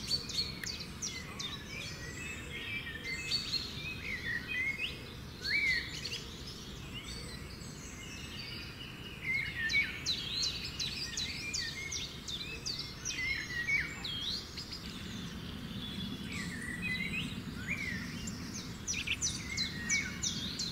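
Several wild birds calling together in rainforest: many short, sharp chirps and quick rising and falling whistles, overlapping, over a low steady background hiss.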